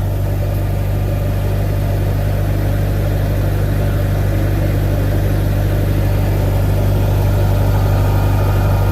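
Engine idling steadily, a constant low hum that does not change in pitch.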